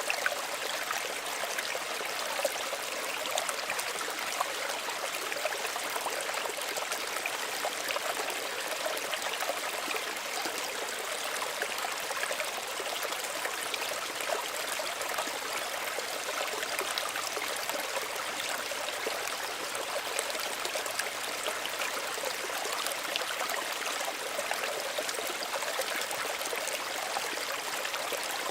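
Small stream of running water trickling and gurgling steadily, a constant splashy hiss full of fine bubbling ticks.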